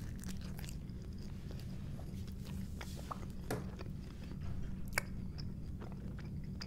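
A person chewing a mouthful of Brooklyn-style pepperoni pizza with its crust, with scattered small crunches and mouth clicks over a steady low hum.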